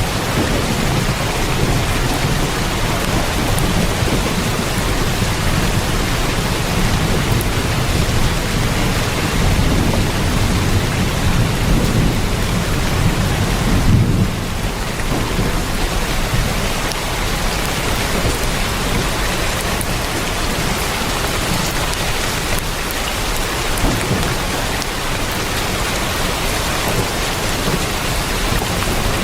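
Heavy rain drumming on a tin roof, a dense steady hiss, with a low rumble of thunder through the first half that eases off about halfway through.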